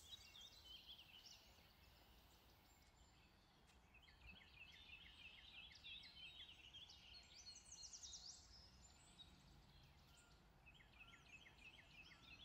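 Near silence with faint songbird song: several runs of quick, short, repeated high notes.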